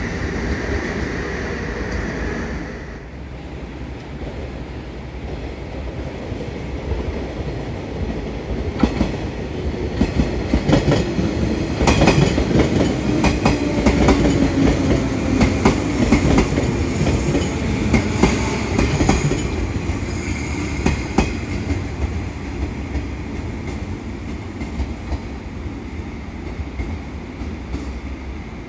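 Train running past on the tracks, its wheels clattering over rail joints. It grows louder to a peak about halfway through, then eases off to a steadier rumble.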